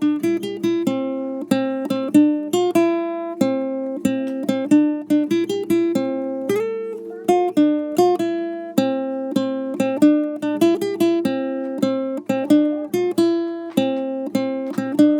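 Intro music: an acoustic guitar plucking and strumming a light, steady tune.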